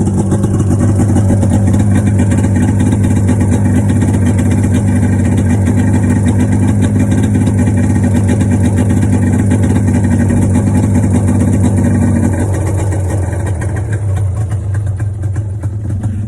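Cold quad engines, a Honda among them, idling steadily as they warm up. About twelve seconds in the note eases off, and at the very end the sound drops sharply as an engine is shut off.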